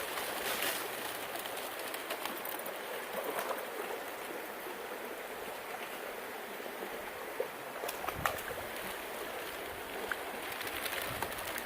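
Steady rush of a small mountain creek's running water, with a few faint clicks about two-thirds of the way through.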